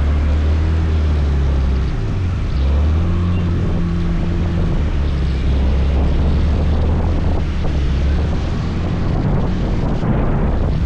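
Motor scooter engine running at a steady low hum while riding, with wind rushing over the microphone. The engine note drops out briefly about two seconds in, then picks up again.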